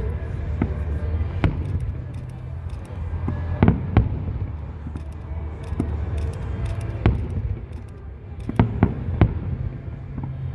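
Aerial fireworks bursting: about eight sharp bangs, three in quick succession near the end, over a continuous low rumble.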